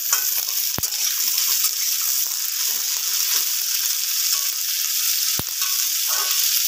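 Chopped vegetables (potato, cauliflower, onion, green chilli, capsicum) sizzling in hot oil in a kadai as they are stirred with a metal spatula: a steady frying hiss, with two sharp clicks, about a second in and again near the end.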